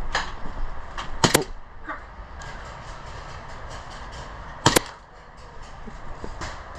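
Airsoft gunfire: sharp cracks, one just after the start, a quick pair a little over a second in and another quick pair near the five-second mark, with fainter ticks between.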